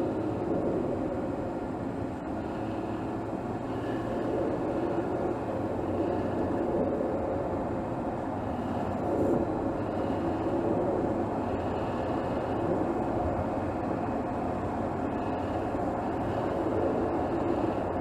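Mercedes GLS 450's turbocharged 3.0-litre inline-six engine running at light load in city driving, heard from under the hood: a steady drone that rises and dips a little.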